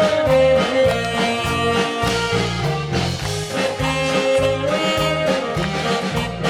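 Saxophone playing a sustained melody over a bouncy swing-style accompaniment with a steady drum beat and walking bass notes.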